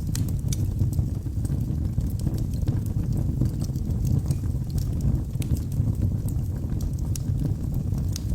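Wood logs burning in a fireplace: a steady low rush of flames with scattered sharp crackles and pops throughout.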